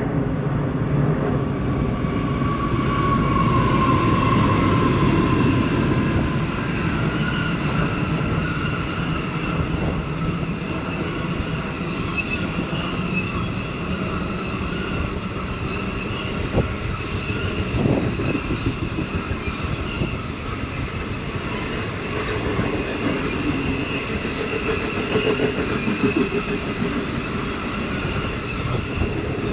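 The Indian Pacific, a long diesel locomotive-hauled passenger train, rolling through the station, loudest in the first few seconds. Then a long run of carriages goes by with wheel rumble and clatter and a couple of sharp clacks from the wheels in the middle.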